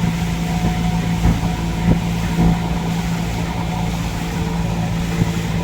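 Boat engine running steadily under way: a constant low hum with a steady drone, with wind rumbling on the microphone.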